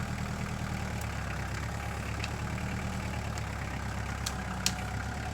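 An engine idling steadily, with a couple of sharp clicks near the end.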